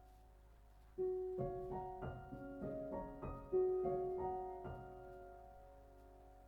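Soft background piano music: a short phrase of notes struck one after another, each ringing and fading, then dying away in the last second or so.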